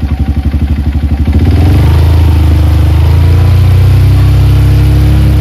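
Honda CRF single-cylinder motorcycle engine idling with an even pulsing beat, then revved up about a second and a half in and held at higher revs.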